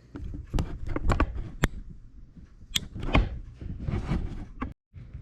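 Scattered sharp clicks and light taps from handling a disassembled iPhone and small repair tools during reassembly. The sound cuts out briefly near the end.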